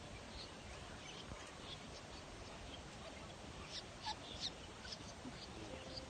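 Faint outdoor hiss with a few brief, high-pitched bird chirps, most of them about four seconds in.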